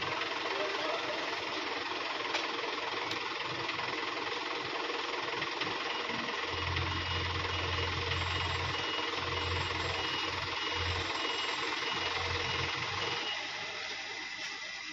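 Heavy diesel engine running steadily, with a deep low hum coming in about halfway through and the sound easing off shortly before the end.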